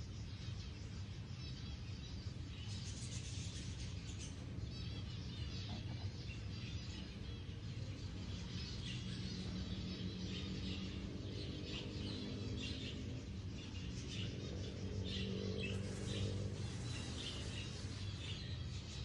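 Many small birds chirping and calling, a stream of short high calls that grows busier in the second half, over a low steady hum.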